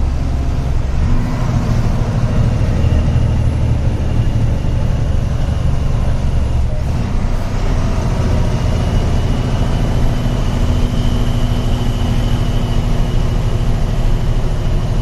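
Loaded diesel truck's engine running steadily on the road, its note shifting about a second in and again about halfway through, with a faint high whine in the second half.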